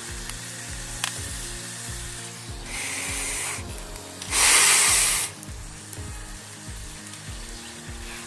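Vegetables sizzling as they fry in an aluminium camp cook pot over a wood fire. Two short hissing rushes come about three and four and a half seconds in; the second is the louder, lasting about a second.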